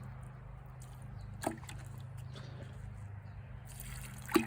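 Water trickling from watering onto garden plants and soil, over a steady low hum. Two short sharp knocks, one about a second and a half in and a louder one near the end.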